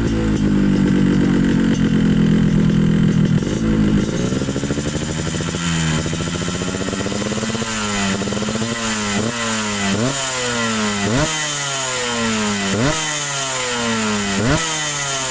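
Yamaha RX-King two-stroke single revving through an aftermarket racing chrome exhaust. It is held at a steady high rev, drops about four seconds in, then is blipped repeatedly, each blip rising sharply and falling away.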